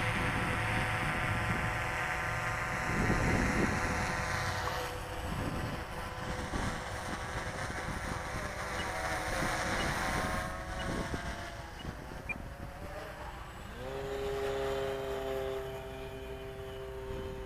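Electric motors of RC model airplanes whining in flight, the pitch shifting up and down as the planes pass and change throttle. About fourteen seconds in, another motor whine rises quickly and then holds steady.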